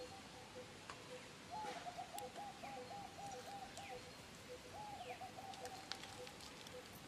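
Wild birds calling: a low note repeated steadily about twice a second, and twice a rolling, trilled call of about a second each, with a few short falling chirps higher up.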